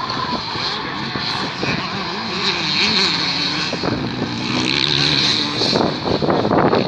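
Motocross bike engines running loud, revving up and down as the bikes race, with the engine pitch rising and falling around the middle.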